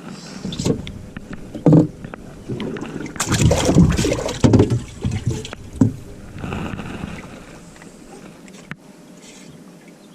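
Irregular knocks, thumps and splashy clatter of handling on a small fishing boat. The busiest stretch comes in the middle, then it settles to a quieter background.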